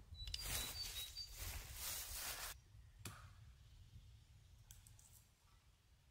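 Rustling and crunching in leaf litter and twigs on the forest floor, with a few short bird chirps; it stops abruptly about two and a half seconds in, followed by a single click.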